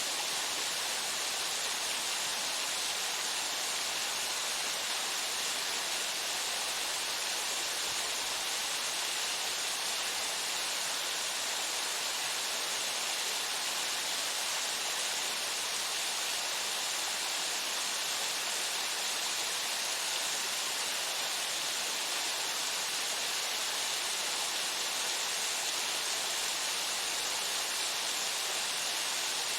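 Waterfall pouring steadily into its pool: an even, unbroken hiss of falling water with most of its energy in the upper range.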